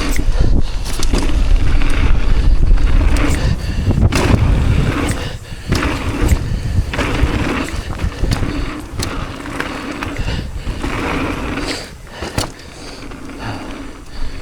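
Mountain bike riding fast down a rough dirt trail: tyres rolling over the ground, with many sharp knocks and rattles from the bike over bumps, under a heavy low rumble of wind on the microphone. It grows quieter about twelve seconds in.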